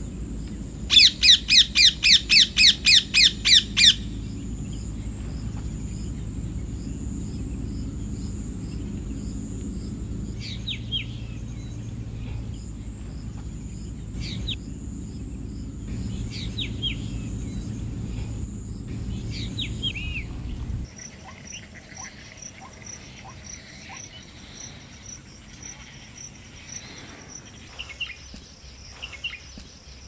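A bird gives a loud, rapid run of about a dozen repeated calls lasting some three seconds, over a steady high hiss of outdoor ambience. Later a drongo gives short, falling calls every two or three seconds. After a sudden drop in the background, fainter chirps and an even high ticking follow.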